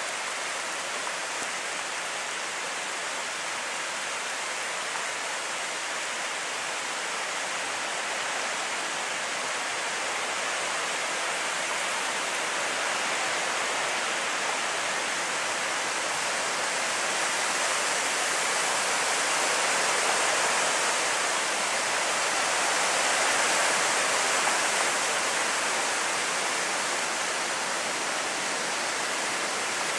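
Steady hiss of hurricane rain falling on the woods and roof, growing somewhat louder for several seconds past the middle, then easing back.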